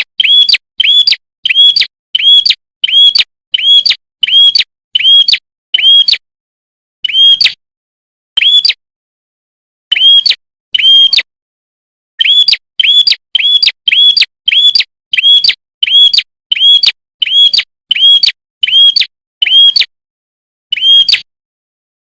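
A red-headed prenjak (prinia) repeating one short, sharp chirp that rises and falls quickly, about twice a second in long runs, broken by a few pauses of a second or two.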